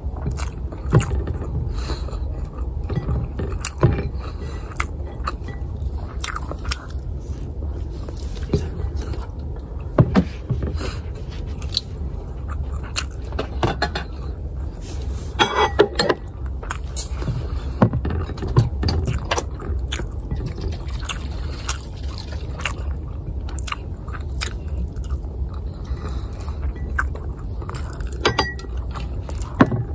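Close-miked chewing and mouth sounds of a person eating garlic fried rice, ham and egg by hand: many short wet smacks and clicks over a steady low hum.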